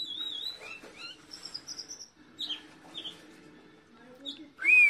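Bulbul singing: short warbled whistles and chirps, then a louder, wavering whistled phrase starting near the end.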